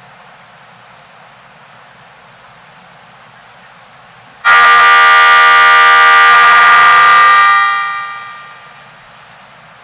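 A train's horn sounding once, a loud, steady, many-pitched blast of about three seconds that begins suddenly about four and a half seconds in and then fades away.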